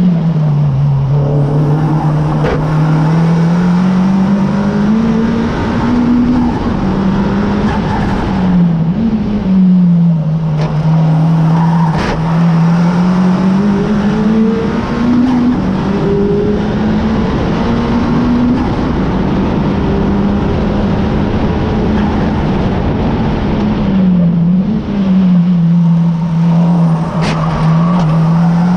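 Honda Civic Type R FK8's turbocharged 2.0-litre four-cylinder engine at full throttle on a race lap. Its pitch climbs through the gears and drops several times on lifts and downshifts for corners, with a long steady stretch on a straight in the middle.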